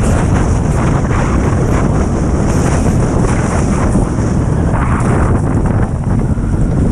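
Strong wind buffeting the microphone in a loud, steady rumble, mixed with the rush of water.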